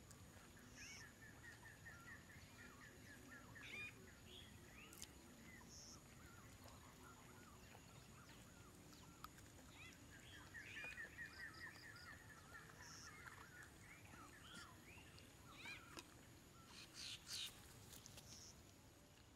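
Faint birdsong: two runs of quick repeated chirping notes, one near the start and one midway, with scattered single chirps between, over a faint high steady hum.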